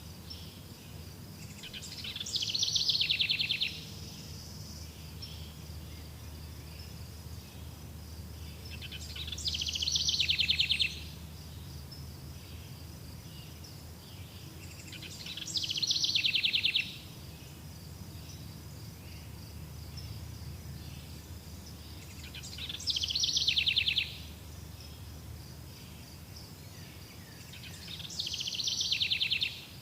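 A songbird repeating a fast trilled song five times, about six seconds apart, each song swelling and then stopping abruptly. Underneath runs a steady high-pitched insect chirring.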